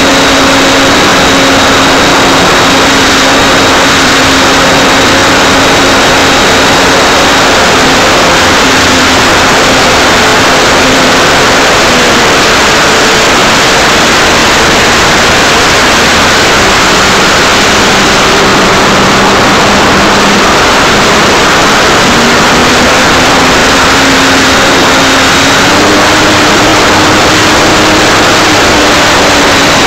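The electric motor and propeller of an Art-Tech Cessna 182 RC model plane, heard loud and close through a nose-mounted keychain camera, with heavy wind rush over the microphone. The propeller's pitch drops about twelve seconds in and rises again around twenty-six seconds as the throttle is changed.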